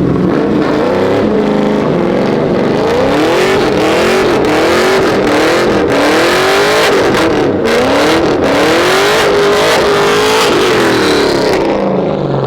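Dodge muscle-car V8 revving hard in repeated rising surges, about one a second, with pitch falling back between them; the sound eases off near the end.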